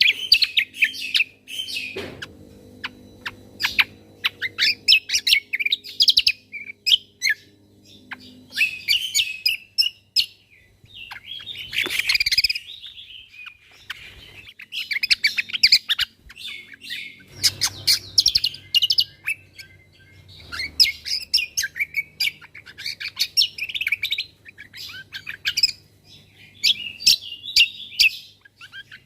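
Cucak kombo (kecial kombo) singing: volleys of rapid, high chirps and trills in repeated bursts with short pauses, its fast 'tembakan' phrases. A faint low steady hum sits underneath.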